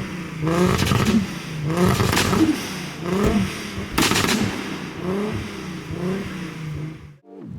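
Car engine revved in quick repeated blips, the pitch rising and falling about once every 0.7 s, with loud crackling exhaust pops in between. The sound cuts off suddenly near the end.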